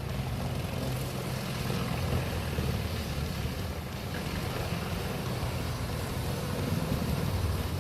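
A large horizontal grinder running: a steady low engine hum with an even rushing noise over it.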